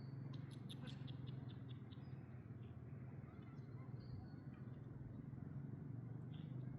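Small birds chirping: a quick run of short high chirps about a second in, then a few scattered chirps, over a steady low hum.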